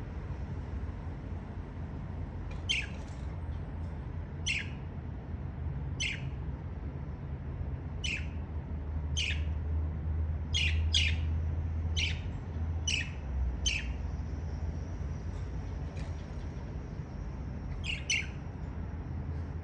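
Budgerigar giving about a dozen short, sharp chirps, each a quick falling note, at uneven intervals over a steady low hum.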